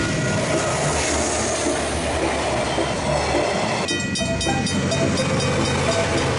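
KiwiRail diesel-hauled freight train passing over a level crossing: locomotive engine and wheels running on the rails. The sound changes abruptly about four seconds in, after which a fast, regular ringing of crossing bells comes in over the train.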